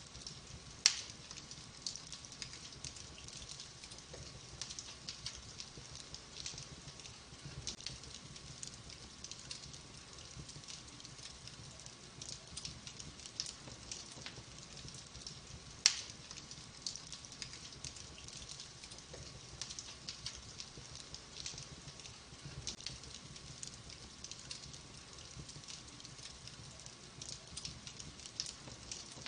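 Wood fire burning in a fireplace: a soft steady hiss with frequent small crackles, and two louder sharp pops, one about a second in and one about halfway.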